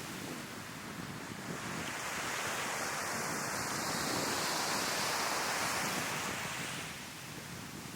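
Sea waves breaking and washing up on the shore, building a second or two in and easing off near the end, with wind buffeting the microphone.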